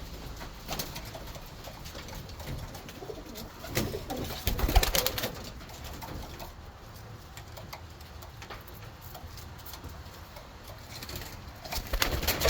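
Racing homer pigeons cooing, with louder bursts of sound about four seconds in and again near the end.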